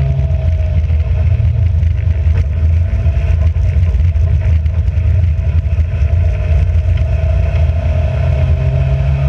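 Race car engine running hard, its note holding fairly steady with small rises and dips in pitch.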